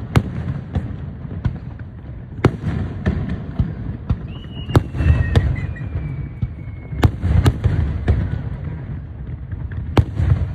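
Fireworks display: repeated sharp bangs and cracks over a continuous low rumble of shell bursts. About midway a thin whistle slides slowly down in pitch.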